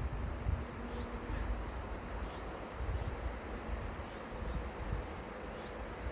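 An insect buzzing in a steady hum over a low rumble of wind on the microphone, with faint short chirps now and then.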